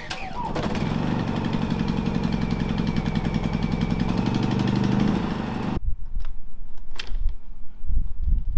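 An engine runs steadily with a fast even pulse for about five seconds, then cuts off abruptly. A few scattered knocks follow.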